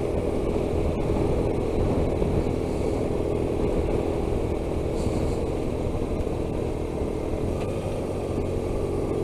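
Motorcycle engine running at a steady cruising speed, a constant hum with no change in revs, under a haze of road and wind noise.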